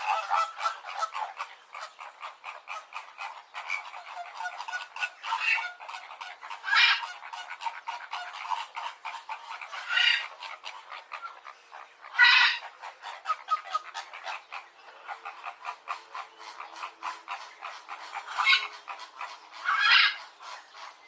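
Jungle birds calling: a dense run of rapid, croak-like notes, with about six louder calls standing out every few seconds.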